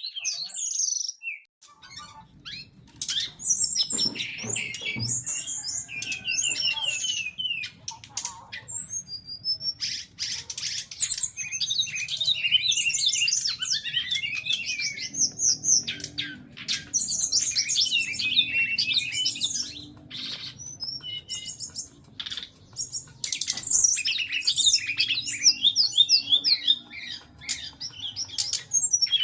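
Caged brown-chested jungle flycatcher (SRDC) singing long bouts of fast, varied, sweeping high notes with harsh 'shot' phrases, pausing briefly a few times, over a low steady hum.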